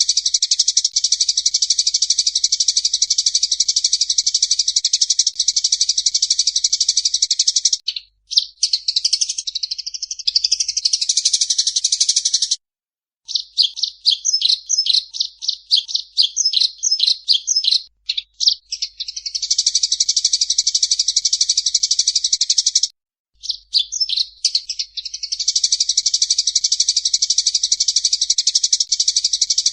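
Small songbird singing long, dense, high trills that run for several seconds at a time. A little over a quarter of the way in, and again past the middle, the trill gives way to varied phrases and a run of fast repeated notes, with two brief pauses, before the steady trill returns.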